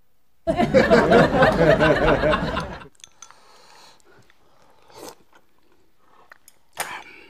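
A loud, wavering vocal burst of about two seconds, then close-miked chewing of a boiled dumpling: quiet wet mouth sounds with a couple of sharp clicks.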